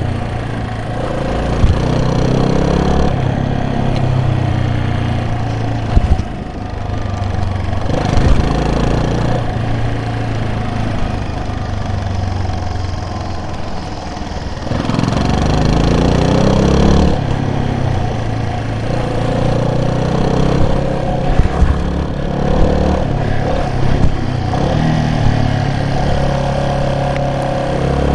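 A vehicle engine running while under way, its pitch rising and falling over several seconds as it speeds up and slows, with a few short knocks.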